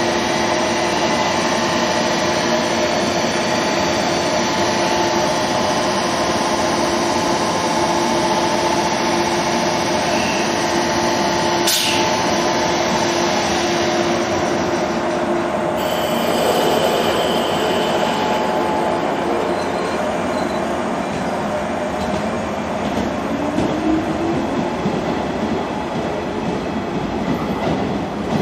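103-series electric commuter train running, a steady mechanical whine over rail noise. A sharp click comes about twelve seconds in, and a few seconds later the steady whine fades out while the rail noise carries on.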